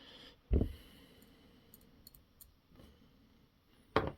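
A dull knock about half a second in and a sharp click near the end, with a few faint light clicks between: small RC truck axle and link parts being handled.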